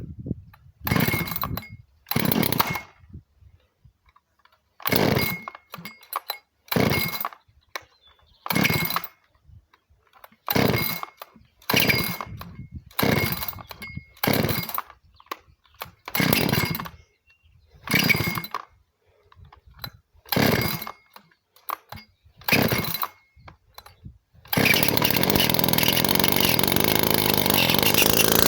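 Dolmar PS-460 two-stroke chainsaw being pull-started from cold: about a dozen short pulls of the recoil starter, each a brief burst as the engine turns over. After the last pull it catches and runs steadily and loudly.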